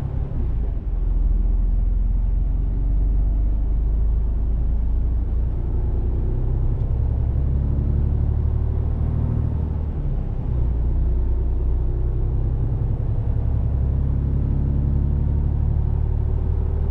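Mercedes-Benz Actros truck's diesel engine running under way, a steady low rumble whose pitch drifts up and down, with brief dips in level just after the start and about ten seconds in.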